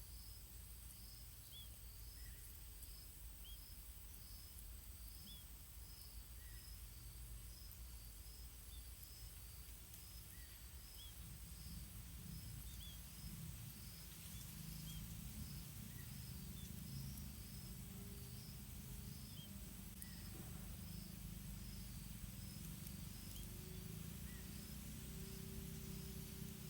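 Faint outdoor ambience of insects and small birds: steady high insect trilling, a high chirp repeated about twice a second, and short rising chirps every second or two. A low rumble grows louder from about halfway through.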